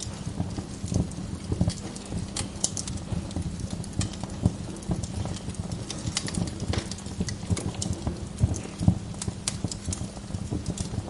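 Wood fire crackling in a fireplace: irregular sharp pops and snaps of burning logs over a low, steady rumble.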